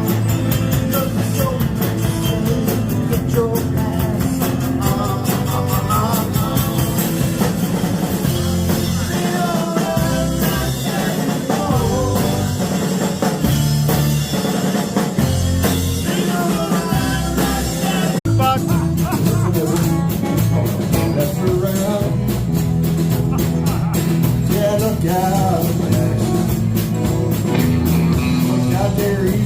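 Rock band playing a yacht-rock style song with singing, drum kit and electric guitar, with a momentary dropout about eighteen seconds in.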